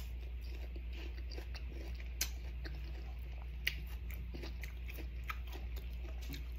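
Biting into and chewing a crisp slice of unripe green mango: a bite at the start, then steady crunchy chewing with a few louder crunches, over a faint low hum.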